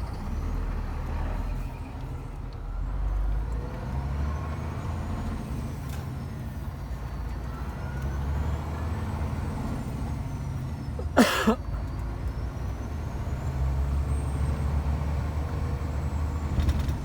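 Scania truck's diesel engine running steadily under way, heard from inside the cab, with one short, loud hiss of air from the truck's air brakes about two-thirds of the way in.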